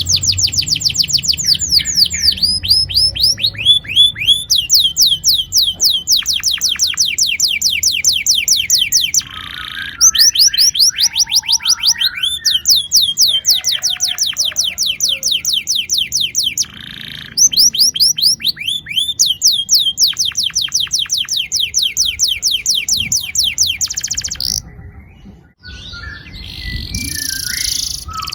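Domestic canary singing long rolling trills: runs of rapid, evenly repeated falling notes lasting several seconds each, with a few short breaks between phrases.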